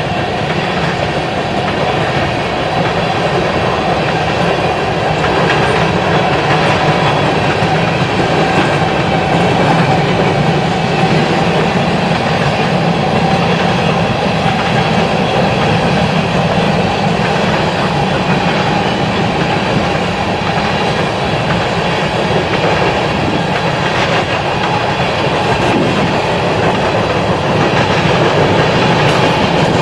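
BNSF freight train's cars rolling past on the rails, a steady loud rumble and rattle of wheels on track.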